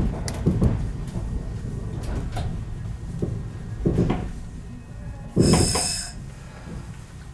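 Sounds of a 115-series electric train standing at a station platform: a steady low hum with scattered knocks and clunks of doors and fittings. About five and a half seconds in comes one short, loud hiss.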